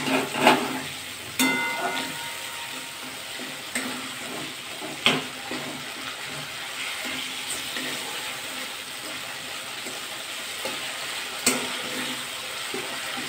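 Tomato-and-spice masala sizzling in hot oil in a metal kadai as a metal spatula stirs and scrapes it, the masala being fried down. A few sharp clicks of the spatula against the pan stand out, one of them ringing briefly a little over a second in.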